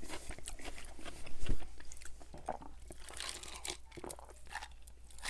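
Close-miked crunching of a pickle spear being chewed, a run of sharp, wet crunches with the loudest about a second and a half in.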